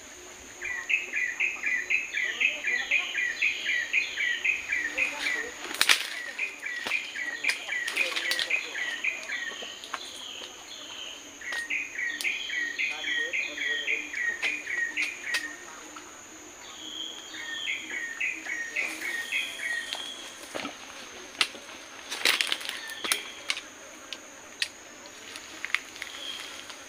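A forest bird calling in fast runs of repeated high chirps, about four or five a second, in three bouts with pauses between. A steady high-pitched drone lies underneath, with a few sharp clicks.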